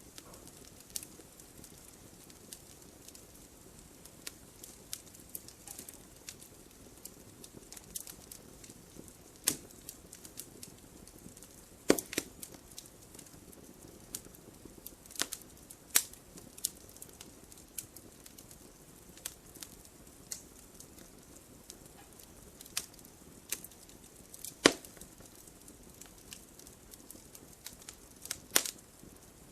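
Wood fire burning with irregular crackles and sharp pops over a low steady hiss, a few louder snaps standing out.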